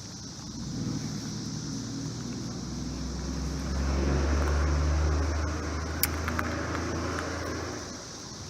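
Cicadas keeping up a steady high-pitched chorus over a low rumble that swells in the middle, with one sharp click about six seconds in.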